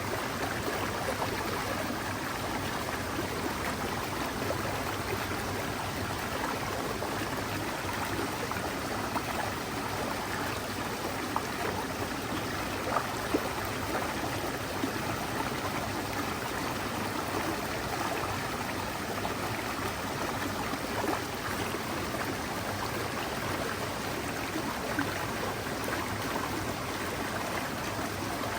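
Forest stream running over rocks, a steady rush of water with small splashes and trickles.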